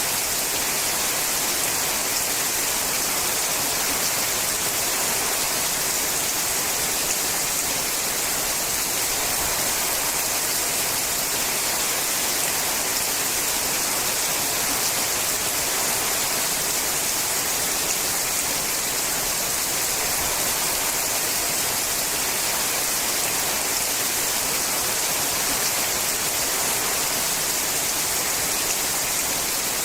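Rain falling steadily on a sheet-metal roof, a dense, even hiss with no let-up.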